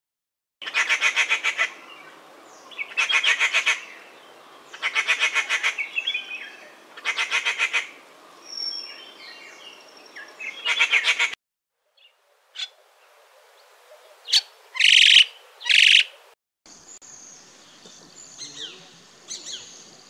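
Rufous treepie giving a series of five harsh rattling calls, each about a second long and about two seconds apart. After a short break come two loud separate calls, then a scatter of quieter bird chirps.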